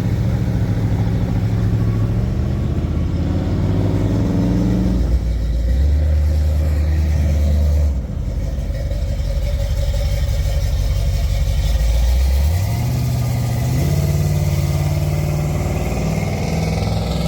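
A car engine and exhaust running loudly with a deep rumble, the engine speed dropping about five seconds in and rising again about twelve seconds in as the car pulls away.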